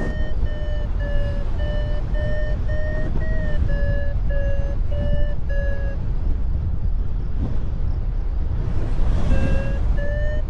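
Paragliding variometer beeping in short, evenly spaced tones, about two a second, its pitch wavering slightly: the climb tone that signals rising air. The beeps stop about six seconds in and start again near the end. Strong wind buffets the microphone throughout.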